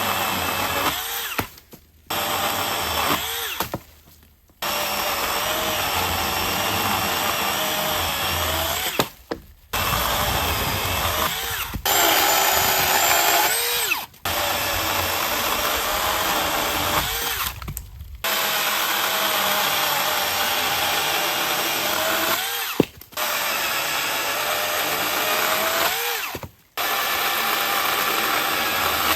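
Cordless battery chainsaw cutting firewood, its electric motor run in repeated stretches of a few seconds. About seven times it winds down briefly between cuts and starts up again.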